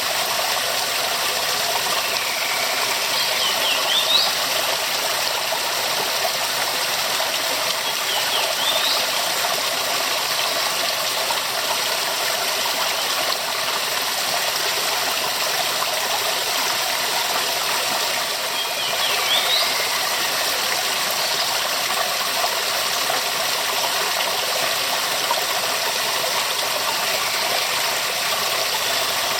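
Waterfall: steady rushing, splashing water. A few brief high chirps rise above it now and then.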